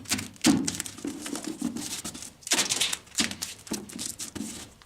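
Cloth duct tape being pulled off the roll and torn, in several short rasping strips with crackling as it is pressed onto the mixer's cover. The loudest pulls come about half a second in and again around two and a half seconds in.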